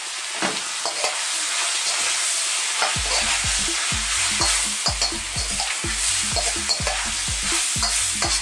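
Bacon, onion and sliced mushrooms sizzling in a wok on a high heat. From about three seconds in, a metal spoon stirs and scrapes them around the pan in quick repeated strokes.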